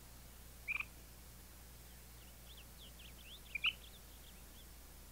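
Small birds chirping: one short high chirp just under a second in, then a quick run of high chirps with a louder double call a little after three and a half seconds.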